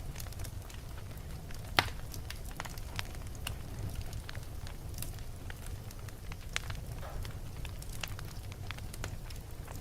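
Wood fire burning in a fireplace: scattered crackles and sharp pops over a low steady rumble, with the loudest pop about two seconds in.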